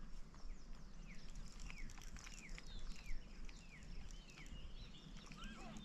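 Birds chirping: a run of short, falling whistled notes a few times a second, with more varied chirps coming in near the end.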